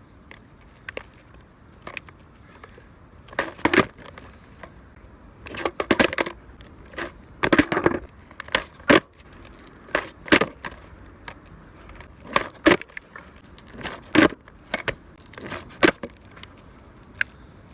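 Skateboard clattering on pavement: a long series of sharp knocks and slaps from the board, irregularly spaced, some coming in quick clusters.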